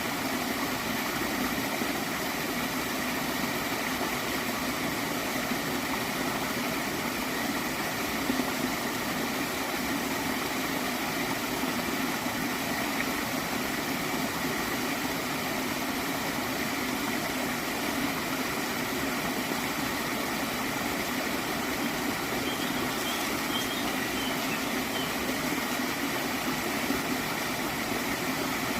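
A small stream flowing steadily, with a gentle gurgle.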